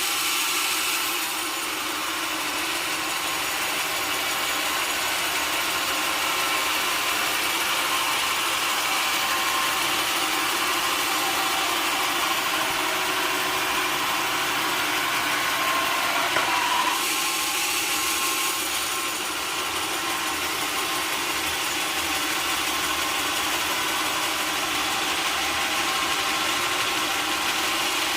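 Sawmill machinery running steadily with a saw working through wood, a loud, even noise that changes briefly about two-thirds of the way through.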